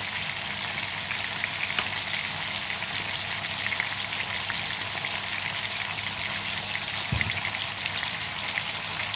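Tomato slices frying in oil in a nonstick frying pan: a steady sizzle dotted with many small pops and crackles as the tomato juice spits in the hot oil. A brief low thump about seven seconds in.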